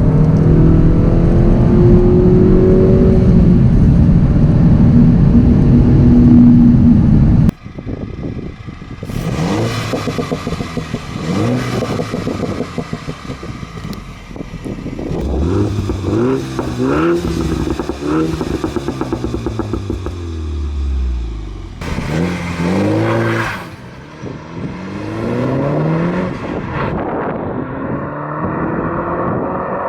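Mini Cooper S F56's turbocharged 2.0-litre four-cylinder running through a cheap aftermarket full exhaust system, loud. A steady dense drone for the first seven seconds or so cuts off suddenly, then the engine revs up and drops back again and again through gear changes, with a few sharp cracks among the revs.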